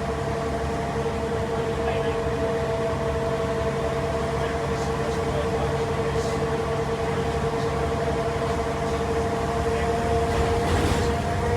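Ex-STA Mercedes-Benz bus with an OM407H six-cylinder diesel running steadily under way, heard from on board: a steady low engine drone with a steady whine over it.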